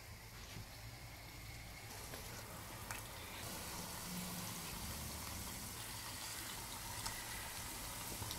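Batter-coated cauliflower pieces deep-frying in hot oil in a saucepan, a faint steady sizzle that grows louder a few seconds in as more pieces are dropped into the oil.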